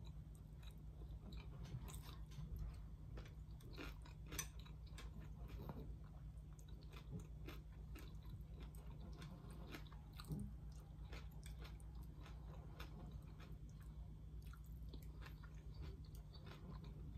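A person chewing and biting food close to the microphone, with scattered small clicks over a steady low hum.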